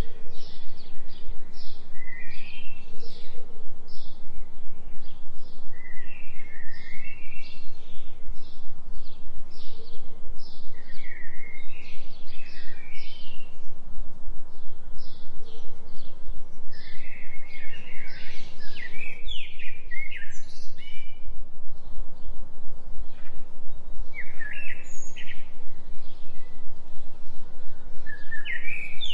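Songbirds chirping in short, rapid phrases every second or two, over a steady low hum from a delta-frequency binaural tone.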